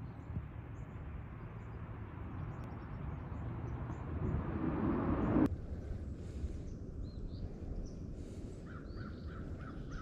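A steady rushing outdoor noise swells and then cuts off abruptly about halfway through. After that, birds call repeatedly in short notes against a quieter background.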